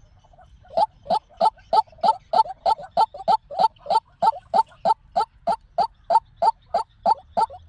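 White-breasted waterhen calling: a steady run of short, slightly rising notes, about three a second, starting just under a second in.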